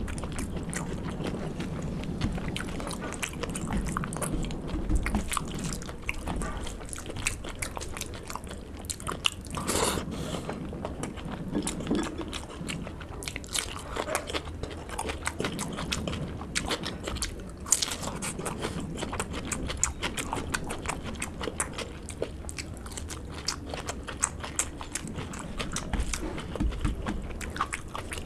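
Close-miked chewing and mouth sounds of a person eating rice and pork curry by hand, with many small irregular clicks.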